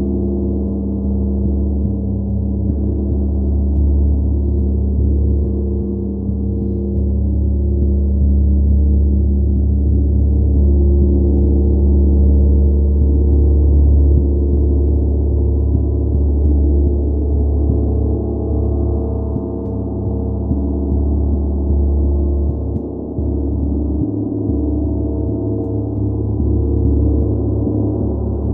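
Large gong played in a continuous, sustained wash: a deep, layered droning hum that swells and ebbs gently without distinct strikes.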